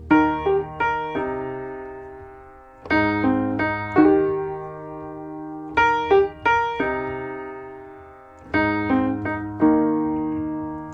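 Solo piano music: a chord struck about every three seconds, each followed by a few quick notes and then left to fade.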